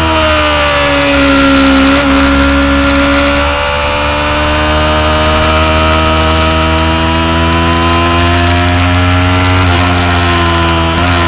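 Kawasaki Ninja 250R's parallel-twin engine running hard at high revs, heard onboard with wind rush. Its pitch sags over the first couple of seconds, then climbs steadily as the bike drives through a long corner, with two brief dips near the end.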